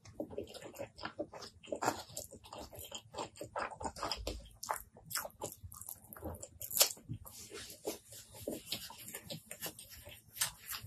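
Close-miked eating sounds: wet chewing and lip-smacking of rice and curry eaten by hand, a dense run of short irregular sticky clicks.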